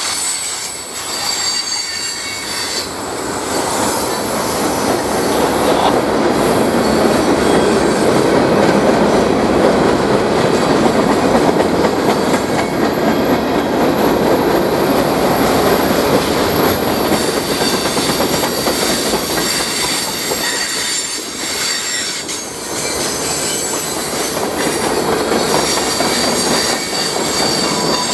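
A train rolling past at close range, its steel wheels squealing on the rails over a continuous rumble with some clickety-clack of the rail joints. It is loudest in the middle, as the train passes closest.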